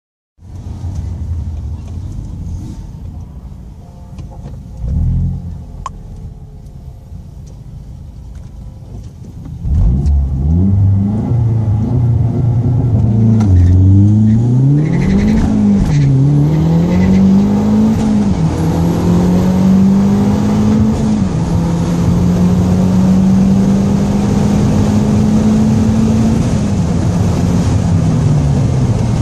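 Mazdaspeed's turbocharged four-cylinder heard from inside the cabin on a quarter-mile drag run. It idles at the start line with one brief blip of the throttle, then about ten seconds in launches at full throttle. The pitch climbs and drops back at four upshifts, holds high, and falls away near the end as the throttle is lifted past the finish.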